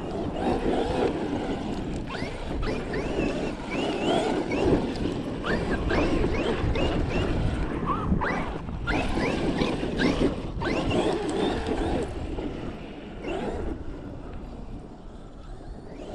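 Large electric RC truck being driven on a dirt track: its motor whines up and down in pitch with repeated bursts of throttle, over a rumble of tires, dirt and wind noise.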